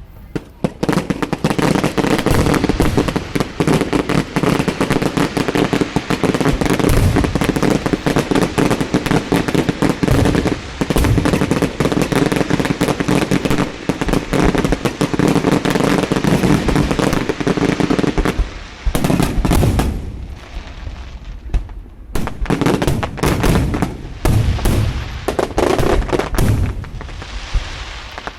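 Fireworks barrage: a dense, rapid run of bangs and crackles that breaks up after about two-thirds of the way into separate bursts with short gaps.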